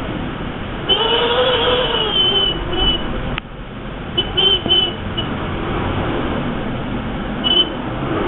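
Typhoon wind roaring, with a wavering whistling howl that rises and falls about a second in and shorter howls later on. The roar drops suddenly with a click about three and a half seconds in, then builds back.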